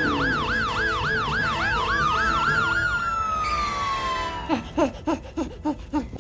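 Police siren sound effect in a fast yelp, then a long rising and slowly falling tone. Near the end it gives way to a quick run of short falling chirps.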